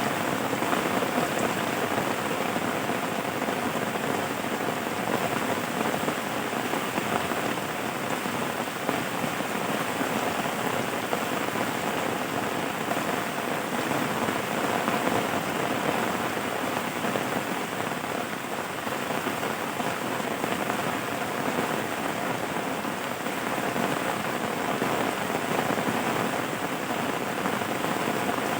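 Steady rain falling, a dense even patter that does not let up.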